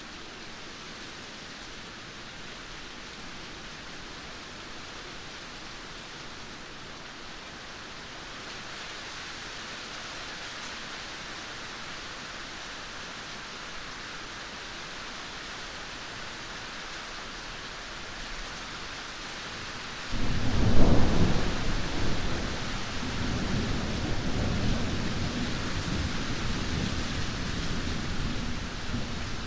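Steady rain hissing, then about two-thirds of the way through a sudden loud thunderclap that rumbles on for several seconds before easing.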